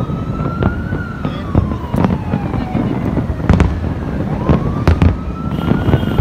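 Fireworks going off: sharp bangs every half second to second over a continuous low rumble of distant blasts. A siren wails at the same time, its pitch rising slowly then falling in long sweeps about five seconds apart.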